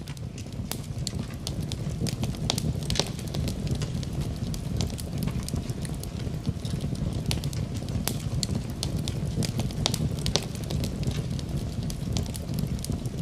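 Wood fire crackling in a fireplace: frequent irregular sharp pops over a steady low rumble.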